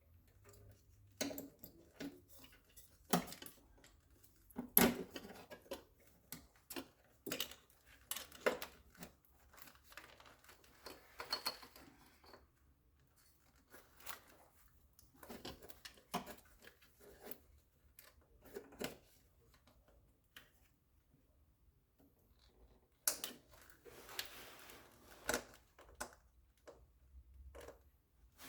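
Irregular clicks, taps and knocks of hand tools and small parts being handled, with short bursts of rustling between them.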